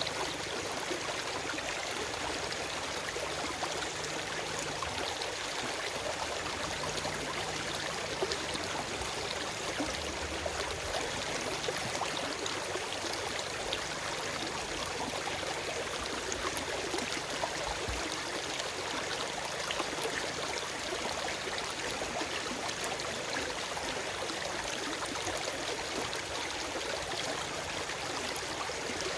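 A forest stream running over rocks: a steady rush of water with fine splashing and trickling. No birds are heard.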